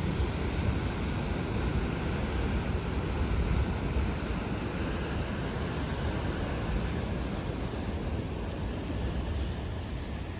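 Steady rushing noise of ocean surf, with wind rumbling on the microphone.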